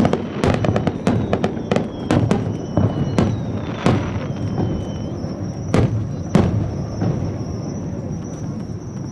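Aerial fireworks display: a rapid volley of shell bursts and crackling bangs, with two of the loudest reports about six seconds in. The bangs then trail off into a rumbling echo near the end.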